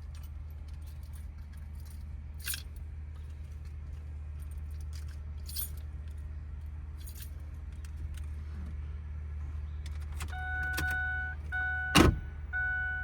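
Keys jangling and clicking, then, about ten seconds in, a Ford F250's warning chime starts sounding in repeated pitched pulses as the key goes into the ignition. There is a sharp knock about twelve seconds in and a steady low hum underneath.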